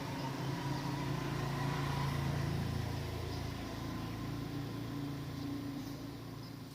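A motor vehicle's engine running steadily with a low hum, growing louder about two seconds in and then slowly fading.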